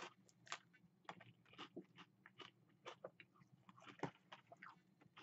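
Faint close-up chewing of crispy pretzel-breaded chicken fries: a string of short, irregular crisp crunches, one louder crunch about four seconds in.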